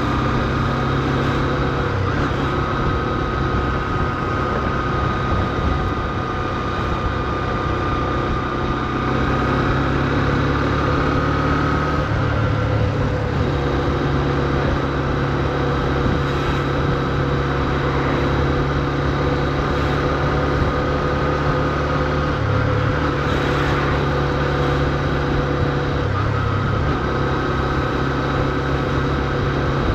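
Honda CB125F's small single-cylinder four-stroke engine running steadily at low revs, its pitch shifting a few times, over steady road noise. The new engine is being kept at low revs while it is run in.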